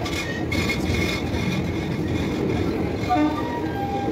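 Passenger train coaches running past alongside a platform: a steady noise of wheels on the rails, with a few knocks from the wheels early on.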